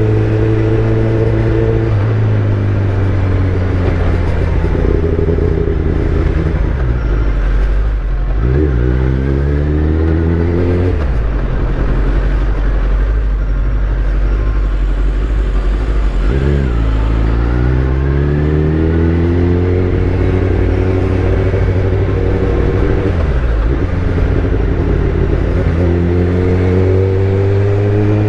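Kawasaki ZX-10R inline-four engine through a full Akrapovic titanium exhaust on the move. It climbs in pitch several times, with sharp drops between climbs, and holds steady in between.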